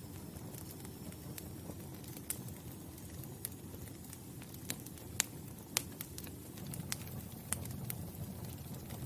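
Wood fire burning, with irregular sharp crackles and pops over a low steady rumble of the flames. The loudest pops come around the middle.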